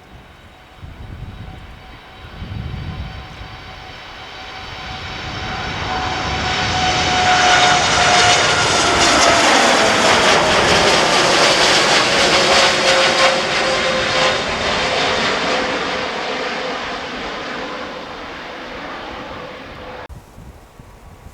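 Jet airliner's engines at takeoff power as it climbs out and passes: the noise swells for several seconds, holds loud, then fades, with a whine that drops in pitch as the aircraft goes by. The sound cuts off abruptly near the end.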